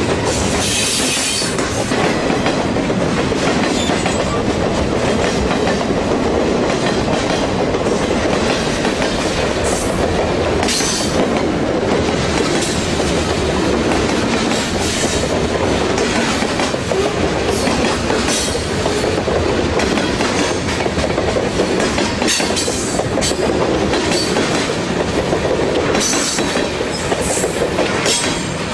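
Freight cars rolling past close by: a steady rumble and clatter of steel wheels on the rails, with a few brief high wheel squeals.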